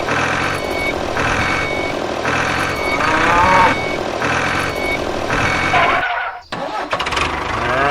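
Vehicle reversing alarm beeping steadily about once a second. A brief pitched call rises and falls about three seconds in, and the beeping breaks off for a moment near the end.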